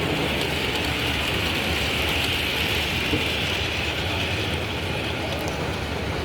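Model railway locomotive running along the layout track, a steady, even running noise over the exhibition hall's background noise.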